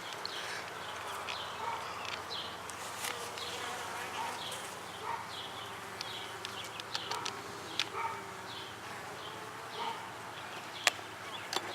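Honey bees buzzing around an open hive, a steady hum, with a few short sharp clicks, the loudest near the end.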